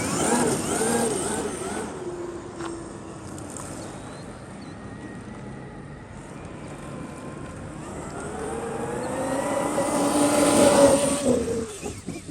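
Traxxas XRT RC monster truck's brushless electric motor and drivetrain whining under throttle: a few quick throttle bursts rising and falling at the start, fainter running in the middle, then a long rising whine that grows louder and peaks about eleven seconds in before dropping off.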